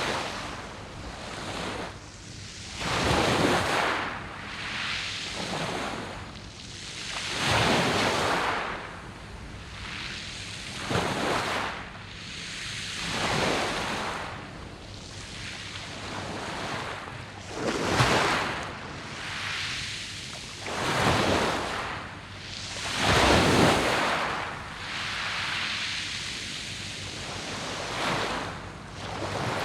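Waves breaking and washing up a pebble beach, one after another, each surge rising and falling away every few seconds.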